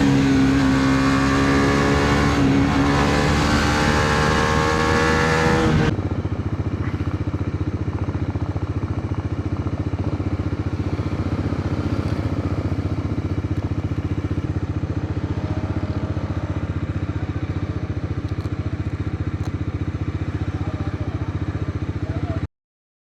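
Bajaj Dominar 400 motorcycle's single-cylinder engine running: loud with its pitch gliding for the first six seconds, then an abrupt cut to a quieter, steady engine sound that stops dead near the end.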